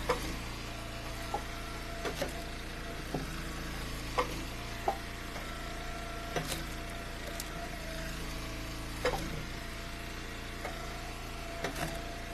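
Eastonmade wood splitter's engine running steadily, with about a dozen irregular sharp knocks and cracks as firewood rounds are split and the pieces drop.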